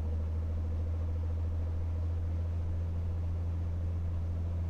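Cirrus SR22T's turbocharged six-cylinder engine running steadily at about 1700 RPM during the pre-takeoff run-up, brakes held: an even, low drone.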